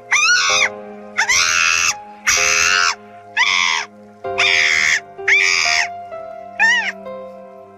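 Monkey chatter: a run of seven loud cries, each under a second and about a second apart, the last one short. Under them runs background music of steady held notes.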